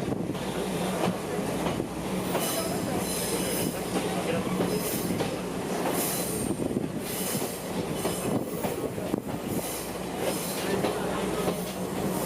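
Trolley train running on the rails, heard from on board: a steady low drone with rattling, and the wheels squealing in high thin tones at times, notably about two and a half seconds in and again midway.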